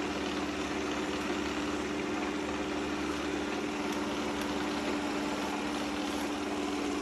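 Shark robot vacuum cleaner running, a steady motor whir with a constant hum.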